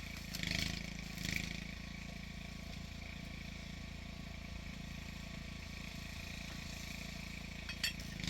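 An engine running steadily with a low hum. There are two brief louder noises near the start and a sharp click near the end.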